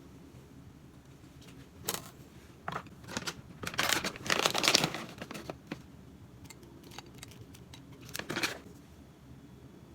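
Kitchen handling sounds: crinkling and snipping in several short bursts. The longest and loudest comes about three to five seconds in, with a shorter one near the end.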